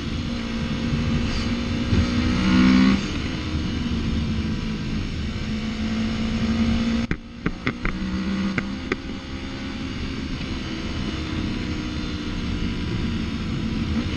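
Yamaha MT-03's parallel-twin engine running at a steady cruise, with a louder stretch about two to three seconds in. About seven seconds in the sound briefly drops out with a few sharp clicks.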